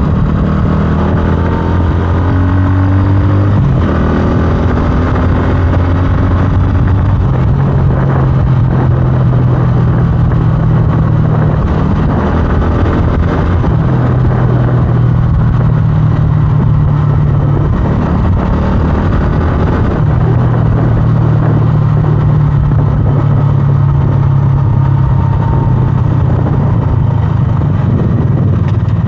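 A 125cc scrambler motorcycle's engine running while riding. The engine note shifts up and down several times as the rider speeds up and slows down.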